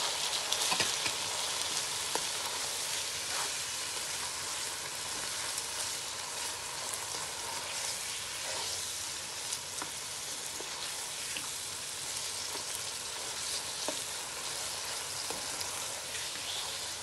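Diced chicken, sweetcorn and capsicum filling sizzling steadily in a hot non-stick pan as a silicone spatula stirs and tosses it, with scattered light taps and scrapes of the spatula against the pan.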